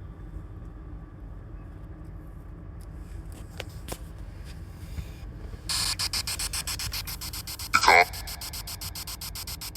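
Radio static from a scanning spirit box. It starts about five and a half seconds in as a rapid, regular chopping hiss, and a short, loud wavering tone cuts through it near the end.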